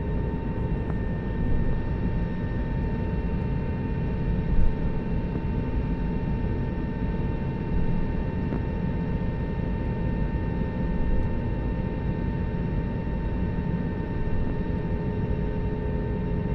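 Steady airliner cabin noise ahead of takeoff: a low hum with a steady whine above it, and a light knock about four and a half seconds in.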